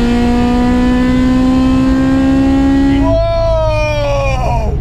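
Car engine pulling hard under acceleration, heard from inside the cabin, its note rising slowly for about three seconds. Then the engine drops to a low rumble while a man lets out a long, falling shout.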